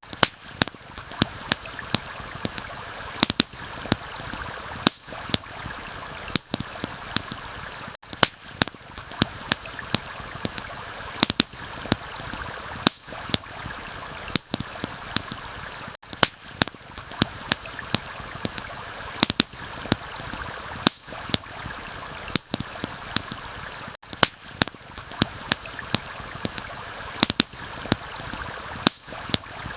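Steady rushing of a flowing stream, with frequent sharp, irregular pops and crackles from a wood campfire burning.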